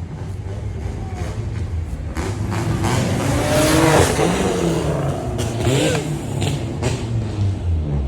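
A car engine revving hard as it drives by, swelling to its loudest about four seconds in, with pitch rising and falling through the revs.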